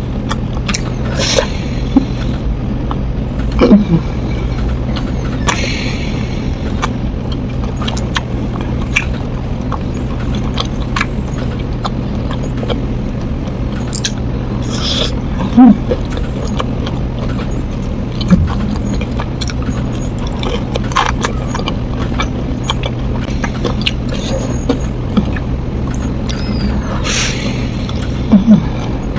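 Close-miked chewing and crunching of crispy fried snacks, with wet mouth clicks and a few louder short mouth sounds, over a steady low hum.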